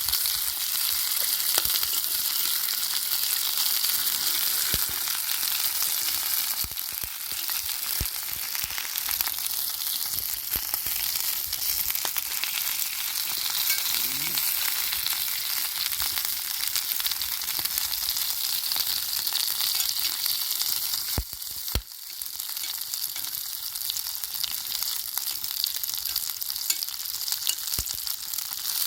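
Food sizzling in hot oil in a pan, with scattered pops and crackles. The sizzle dips briefly about two-thirds of the way through.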